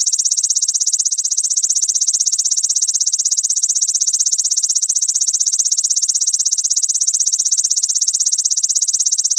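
Belalang mas grasshopper calling in one continuous, high-pitched, very rapid pulsing trill.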